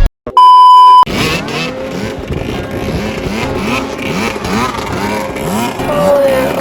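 A loud steady beep lasting under a second, then dirt bike engines revving up and down in quick repeated blips, about two or three a second.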